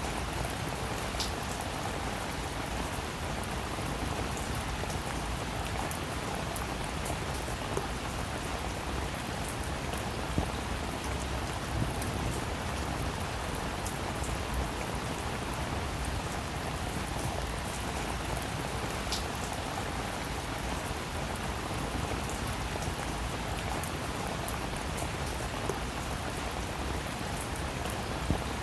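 Steady rain falling on a surface, with a constant even patter and scattered louder individual drops.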